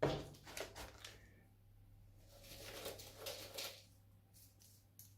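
Loose potting mix of bark, peat and pebbles rustling and crunching as it is handled, in two bursts, the second about two seconds in and the longer, followed by a few faint ticks.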